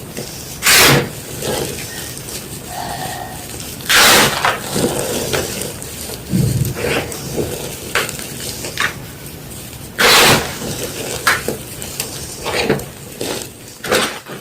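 Gym chalk being crushed and crumbled: three loud crunches, about a second, four seconds and ten seconds in, with many smaller crackles and crumbling sounds between them.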